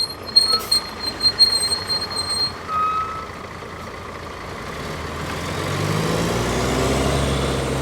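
A motor vehicle's engine, faint at first and growing louder over the last few seconds, as of a car approaching or pulling up; a few short high chirps come near the start.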